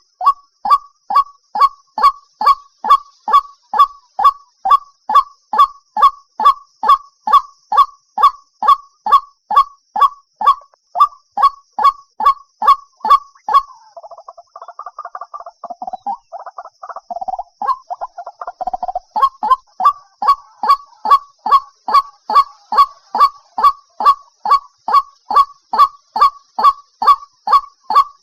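White-breasted waterhen calling: a loud, steady series of repeated notes at about three a second. About halfway through, the series breaks for a few seconds into a quieter, lower, jumbled chatter, then resumes.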